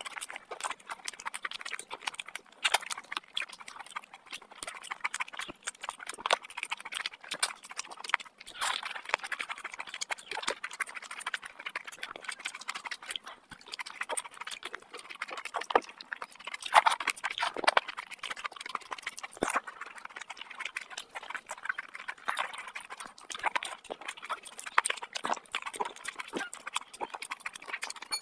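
Close-miked chewing and mouth sounds of a person eating rice and curry by hand: a dense, uneven run of wet clicks and smacks.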